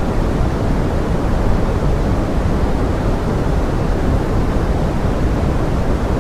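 Steady pink noise made to sound like forest rain: an even, deep hiss with most of its weight low down, unchanging, with no separate drops or other events.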